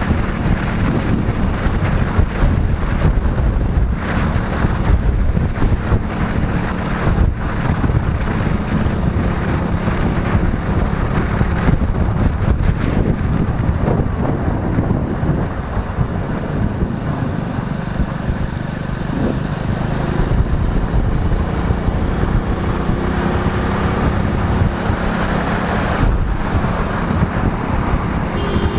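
Wind buffeting the microphone on a moving motorcycle, with the motorcycle's engine and road noise running steadily underneath.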